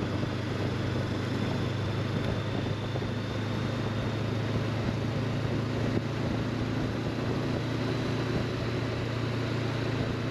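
Honda CB500X parallel-twin engine running at a steady cruise while riding, with steady wind and road noise.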